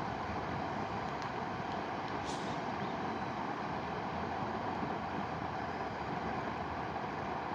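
Mountain river rushing steadily, with one or two faint short clicks in the first few seconds.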